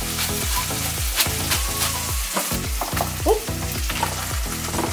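Chicken frying in a hot pan, a steady sizzle, over background music with a steady low beat.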